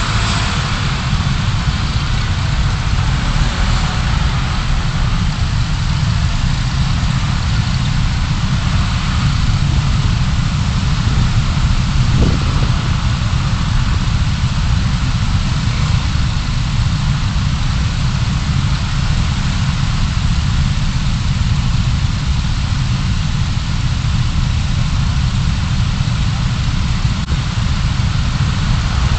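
Steady low rumble of a car driving: engine and tyre/road noise heard from inside the cabin through a dashcam microphone.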